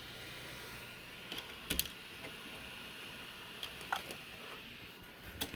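A few faint, scattered clicks and taps as the flexible magnetic build plate is lifted off the Ender 3 Pro's heated bed.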